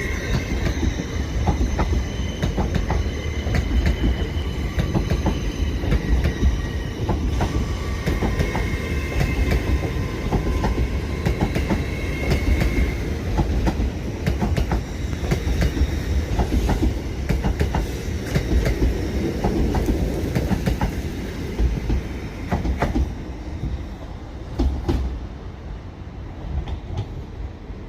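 Class 800 train pulling out of the station, its wheels clicking over rail joints and points over a low rumble. High squealing tones sound for the first dozen seconds or so, and the whole sound dies away over the last few seconds.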